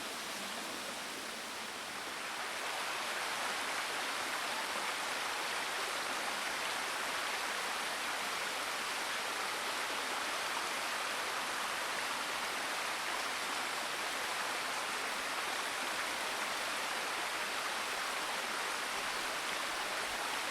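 A small creek's running water, a steady even rushing babble that swells slightly over the first couple of seconds and cuts off suddenly at the end.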